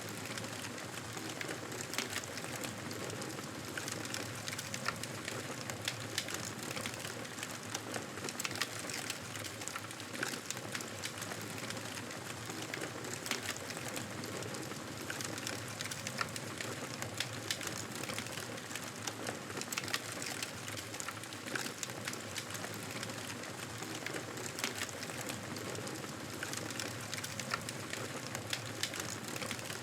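Wood fire crackling steadily in a fireplace, with a constant hiss and many small pops and snaps.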